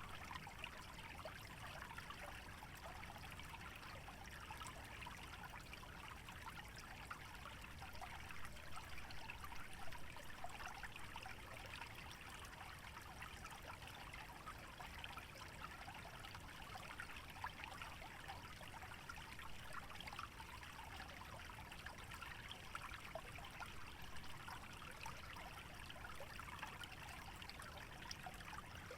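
Small stream trickling and babbling through a wetland, a steady, fairly quiet flow of fine water splashes with a faint low rumble underneath.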